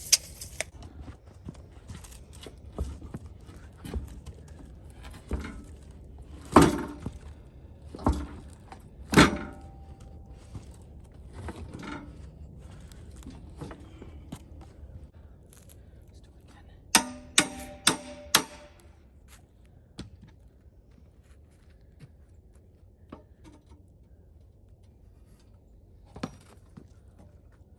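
Scattered heavy thunks and knocks from handling a large ash firewood round on a hand truck, loudest about six to nine seconds in. About seventeen seconds in comes a quick run of four ringing metal clanks, as the hand truck's attachment is handled.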